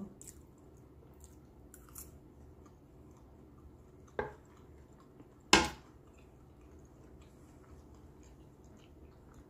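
Quiet chewing of a forkful of pancake and egg, with small mouth clicks. Two sharp knocks about four and five and a half seconds in, the second the louder, from a metal fork hitting the wooden cutting board as it is set down.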